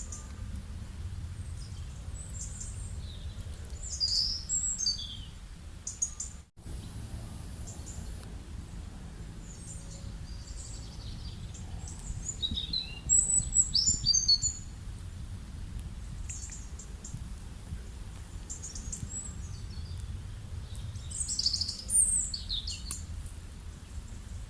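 Birds chirping in clusters of short, high, falling notes, about four, thirteen and twenty-two seconds in, over a steady low outdoor rumble. The sound cuts out for an instant about six and a half seconds in.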